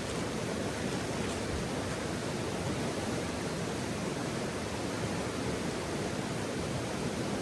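Wood campfire burning: a steady rushing hiss with a couple of faint crackles, one near the start and one about a second in.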